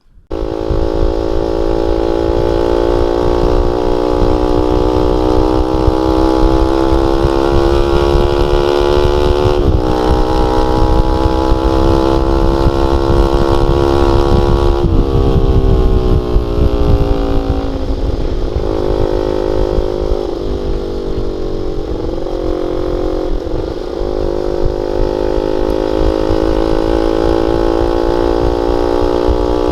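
Honda Sonic 150R's single-cylinder four-stroke engine through a CLD X Monster aftermarket exhaust with a half baffle, running under way. Its note climbs slowly and drops sharply about ten and fifteen seconds in, as with gear changes, then rises and falls with the throttle.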